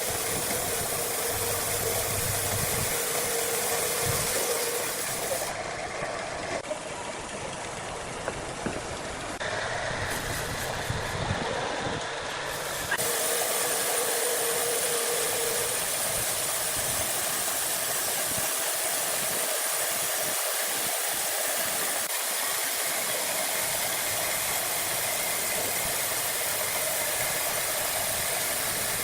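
Sawmill machinery running: a steady hissing noise with a faint hum, changing abruptly about five seconds in and again about thirteen seconds in.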